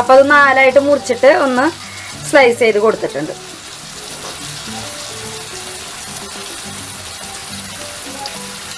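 Sliced onions and carrot pieces frying in oil in a pan, a steady sizzle.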